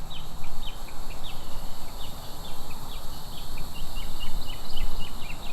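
Birds chirping: many short, falling chirps, several a second, over a steady low rumble.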